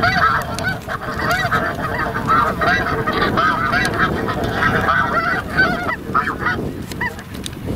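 A flock of snow geese calling: many short, high honking calls overlapping in a dense chorus that thins out near the end.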